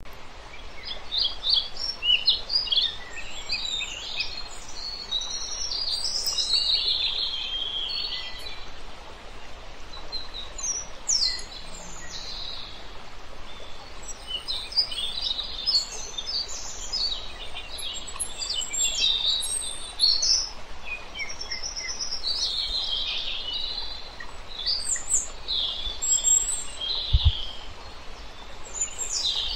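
Birds chirping and calling with many short, overlapping high chirps over a steady background hiss, and one brief low thump near the end.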